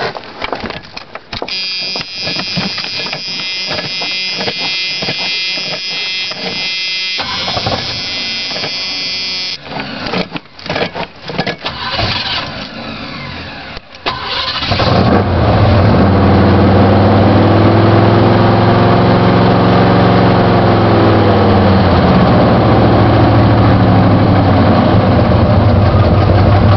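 Truck engine cold start. A steady high-pitched tone sounds for several seconds, then comes a few seconds of irregular clicking and rattling as it cranks. The engine catches about halfway in and runs loud and steady at a fast cold idle, its speed rising and easing once before settling.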